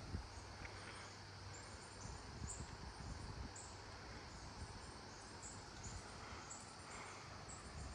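Wind rumbling unevenly on the microphone, with insects chirping in short, high repeated chirps.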